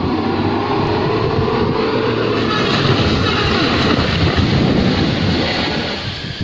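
Heavy truck engine running hard under load, its pitch rising during the first few seconds.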